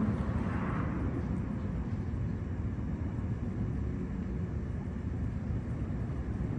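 Steady low outdoor rumble of background noise, with no distinct events in it.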